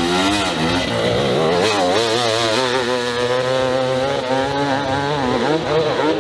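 Dirt bike engine revving hard on a hill climb, its pitch wavering rapidly up and down as the throttle is worked.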